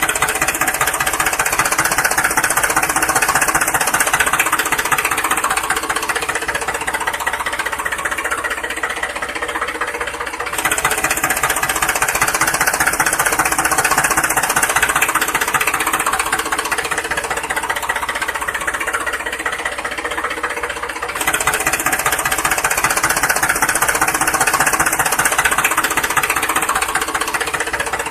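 An engine running steadily with a fast knocking rattle. The same roughly ten-second stretch repeats, changing abruptly twice.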